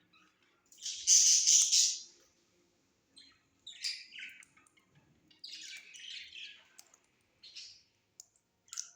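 Pet parrot calling: a loud, harsh squawk lasting about a second starts a second in, followed by a string of shorter, higher chirps and squawks.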